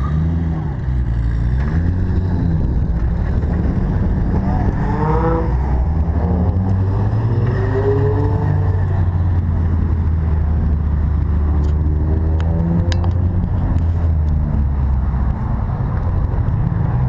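Sports car engines idling with a steady deep rumble, revved up and back down about five seconds in and again around eight seconds; some background voices.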